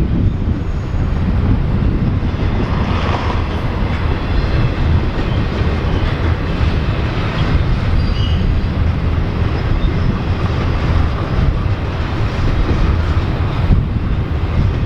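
Norfolk Southern freight train rolling past: a loud, steady rumble of railcar wheels on the rails.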